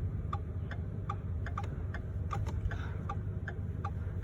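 Turn-signal flasher in a 2011 Ford F-150 clicking steadily, about three ticks a second, over the low steady hum of the idling Coyote V8 engine.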